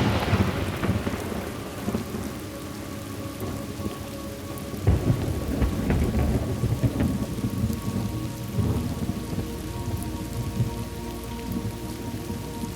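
Thunderstorm: steady rain falling, with a thunderclap rumbling away over the first couple of seconds and more rolls of thunder about five seconds in and again near nine seconds.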